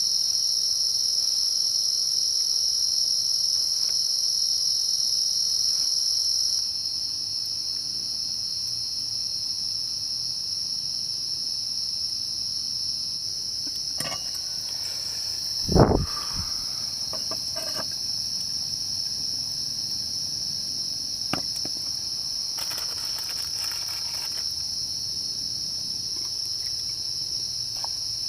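A steady, high-pitched insect chorus, with a higher layer of it dropping away about six seconds in. Halfway through comes a single loud thump, and a few light clicks fall around it.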